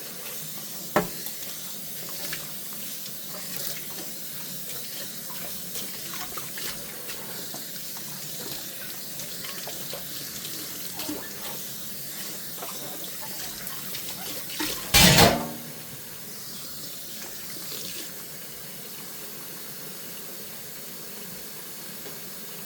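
Kitchen tap running steadily into a sink while dishes are washed by hand, with small clinks and a sharp knock about a second in. About fifteen seconds in, a louder clatter of dishware against the sink, ringing briefly.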